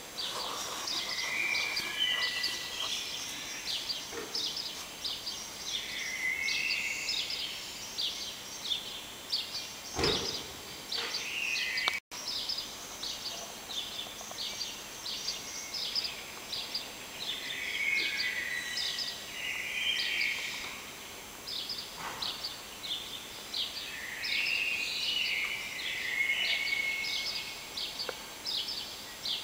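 Many small birds chirping quickly and without pause, with a lower, fuller bird phrase breaking in every few seconds. A single knock about ten seconds in.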